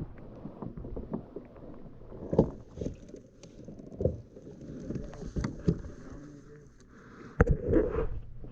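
Scattered knocks and clunks of gear being handled on a plastic fishing kayak, with one sharp knock about seven and a half seconds in.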